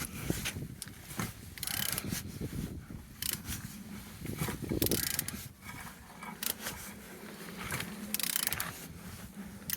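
A used 8J857 engine being turned over by hand with a ratchet wrench on the crankshaft: irregular ratchet clicks and mechanical knocks, with short hissy rushes about every three seconds. The engine turns freely with compression on all cylinders.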